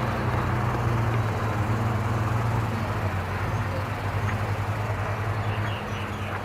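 Large engine running with a steady low drone, easing off a little near the end.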